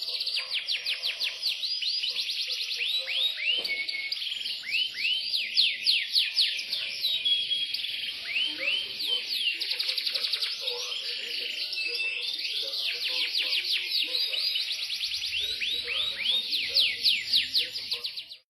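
Yorkshire canary singing a long continuous song of fast trills and rapid rising and falling whistled notes, breaking off abruptly at the very end.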